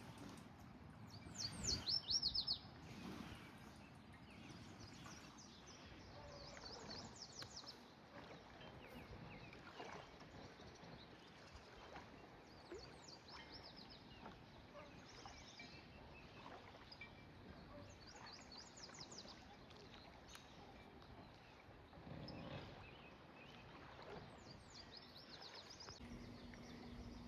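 A songbird singing short, rapid trilled phrases, one about every five or six seconds, over faint outdoor background noise. The loudest phrase comes about two seconds in.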